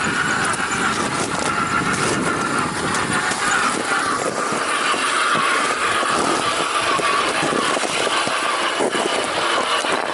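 A 1/6-scale RC Willys jeep driving off-road. Its motor and gears whine steadily, rising and falling a little with speed, over rough crunching and rattling from the terrain.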